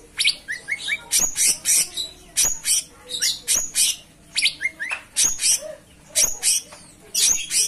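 Cucak cungkok songbird singing vigorously: a rapid, continuous run of sharp high chirps and short whistled notes, many sweeping quickly upward, coming in tight clusters about twice a second.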